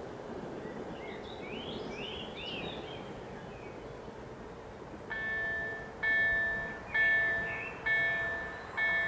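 Level-crossing warning bell, a KLD-4103 electronic slow-ringing bell, starts striking about five seconds in, repeating roughly once a second with each ring fading. This is the crossing activating to warn of an approaching train. A small bird chirps a few times before it.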